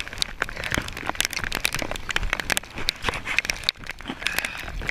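Rain and water spray pelting the camera in irregular sharp taps and crackles, over a low rumble of wind buffeting the microphone.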